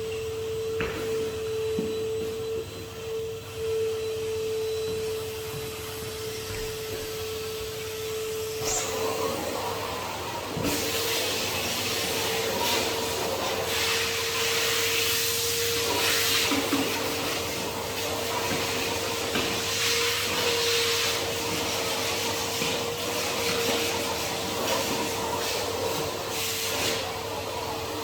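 Henry HVR200 620 W cylinder vacuum cleaner running with a steady motor whine. About nine seconds in, a louder, uneven rush of suction air joins it and keeps rising and falling.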